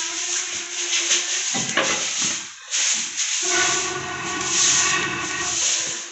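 Steady hissing of a wood fire being built up in a cooking stove, with a faint steady tone underneath that shifts in pitch about halfway through.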